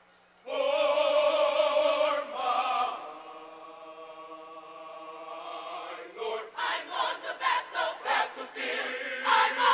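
Gospel choir singing: a loud held chord with vibrato comes in sharply about half a second in, eases into softer sustained notes, then from about six seconds breaks into short punched rhythmic phrases.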